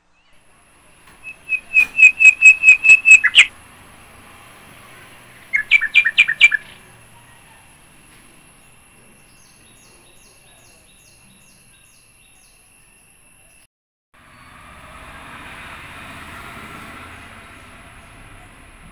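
A bird calling loudly: a quick run of about eight sharp repeated notes, then a shorter run of about five a few seconds later. A steady faint high tone sounds throughout, and a broad noisy rush rises in the last few seconds.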